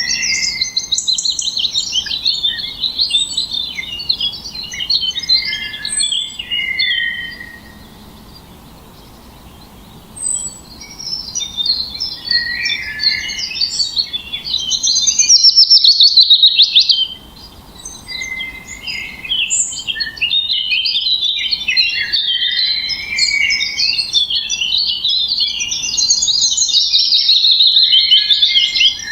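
Songbirds singing: a dense run of rapid chirps, trills and warbles, with a lull of a couple of seconds about eight seconds in.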